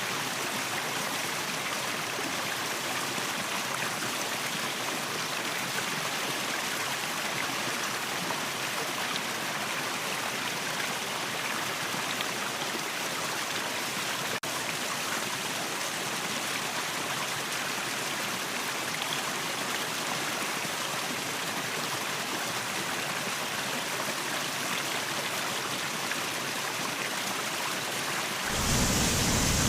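Waterfall: a steady, even rush of falling water. Near the end it becomes suddenly louder and deeper.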